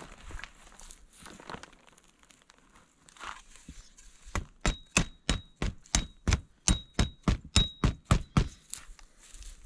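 A rapid run of about fifteen hammer blows, three or four a second, several with a short metallic ring: tent stakes being driven into the ground.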